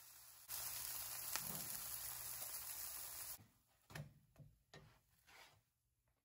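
Oats-and-egg omelette sizzling in a nonstick pan as a steady hiss, which stops after about three seconds; then a spatula scrapes under it in a few short strokes as it is lifted to be flipped.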